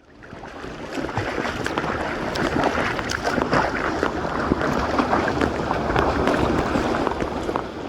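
Water rushing and splashing in a dense, crackling wash, fading in at the start and fading out near the end.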